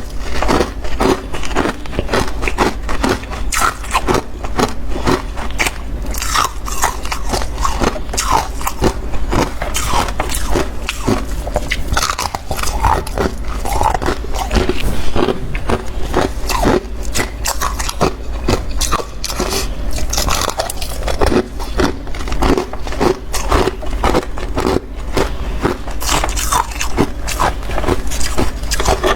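Close-miked biting, crunching and chewing of freezer frost: a dense, continuous run of crisp crunches.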